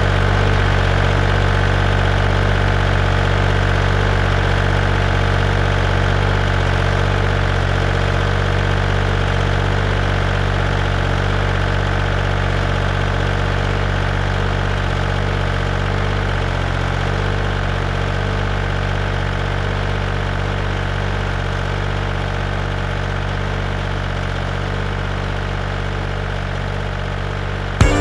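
A heavy machine's engine idling steadily, fading slightly toward the end.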